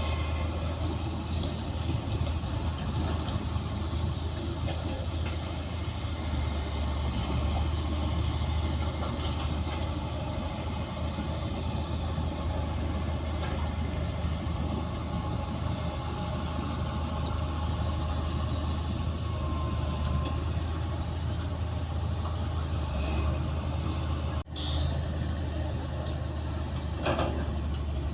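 Heavy diesel earthmoving machinery running steadily, a low engine drone under a noisy mechanical clatter, with a momentary break near the end followed by a few short clanks.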